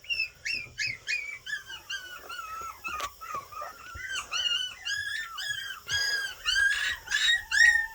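A litter of about five-week-old Miniature Pinscher puppies whining and yipping: many short, high-pitched cries overlapping one another several times a second, growing a little louder in the second half.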